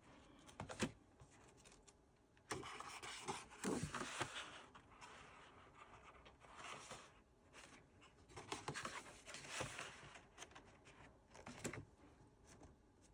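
Sheets of 8x8 patterned scrapbook paper leafed through by hand: faint, intermittent rustling with a few light taps.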